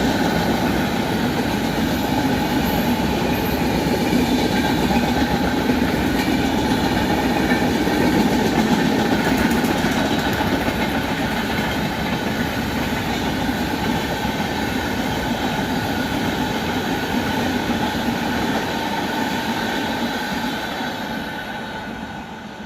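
Indian Railways express passenger train running past: a steady rumble and rattle of wheels on the rails, with a faint thin high ringing over it, fading away near the end.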